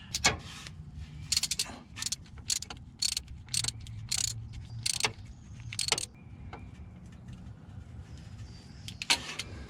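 Metal hand tools clicking and clinking as the pipe-thread drain plug on a Ford 8.8-inch rear differential is snugged down. A string of short, sharp clicks runs through the first six seconds, then a couple more come near the end.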